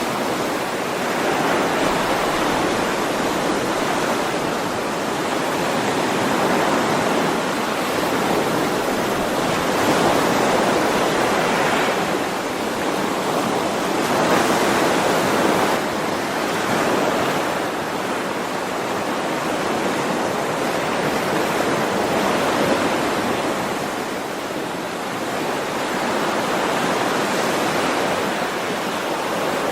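Ocean waves breaking and washing up on a shore, a steady surf noise that swells and falls back every few seconds.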